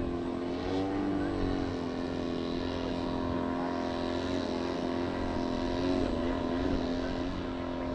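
Radio-control model aircraft's motor running steadily in flight, a droning tone that wavers slightly in pitch.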